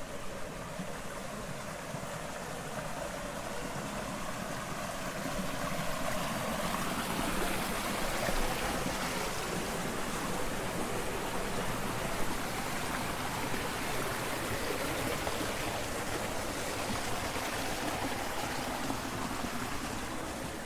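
Water rushing steadily along a rice-terrace irrigation channel. It gets louder about six seconds in and then holds.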